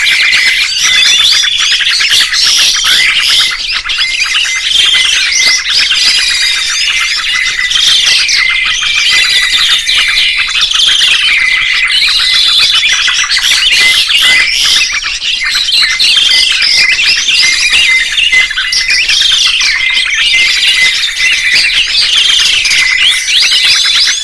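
Several songbirds singing and chirping at once in a dense, overlapping chorus of whistled sweeps and trills, over a short note repeated rapidly at one steady pitch.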